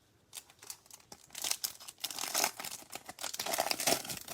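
A foil trading-card pack wrapper being torn open and crinkled by hand, a run of quick rustles and tearing crackles that starts about half a second in and grows busier.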